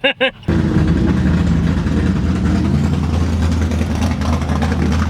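Car engine running at a steady, low drone that starts abruptly about half a second in and holds evenly throughout.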